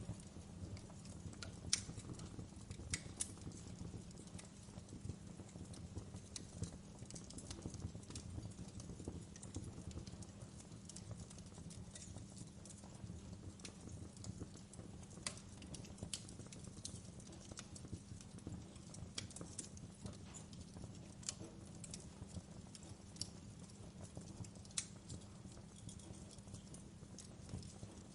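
Wood fire burning in a fireplace: a low steady rumble of the flames with irregular sharp crackles and pops from the burning logs, a few louder snaps scattered through.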